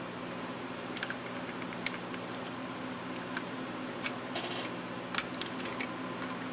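Scattered light plastic clicks and taps from handling the parts of a power window switch as it is put back together, with a short run of quick ticks about four seconds in, over a steady low hum.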